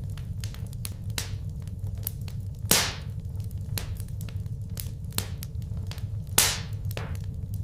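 Wood fire in a fireplace crackling, with irregular small pops and two loud sharp snaps, one near the middle and one near the end, over a steady low rumble of the flames.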